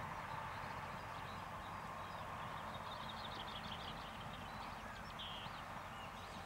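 Distant Class 175 diesel multiple unit running along the line, a faint steady rumble and hum, with small birds chirping a few times in the middle.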